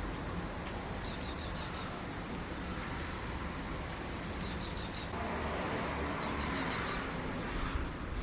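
Three short bursts of high, rapid chirping from an animal, over a steady low background noise.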